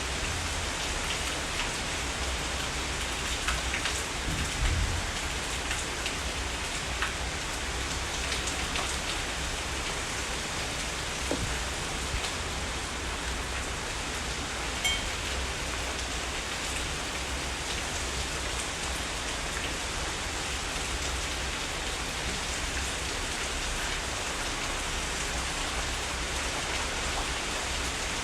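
Heavy rain falling steadily, a dense hiss with individual drops ticking through it. A few louder drop hits come about four to five seconds in.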